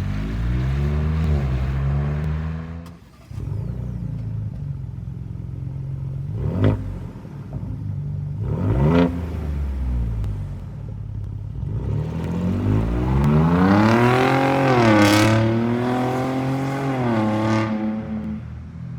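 2021 Ford Bronco's 2.7L twin-turbo V6 running through an MRT King of the Hill axle-back exhaust with turn-down tip, idling between revs. There is a short rev near the start, two quick sharp throttle blips in the middle, and a longer rev that rises and falls back to idle near the end.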